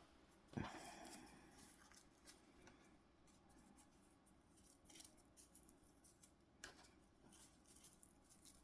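Near silence with a few faint scratches and ticks of drawing materials on paper, the clearest about half a second in and another about two thirds of the way through.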